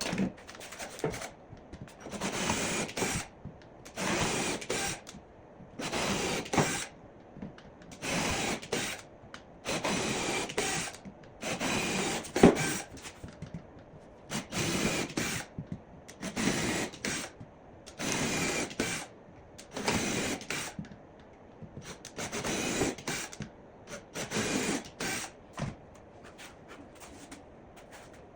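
A power drill/driver driving screws into wood in short runs, about a dozen of them, one every second or two with brief pauses between.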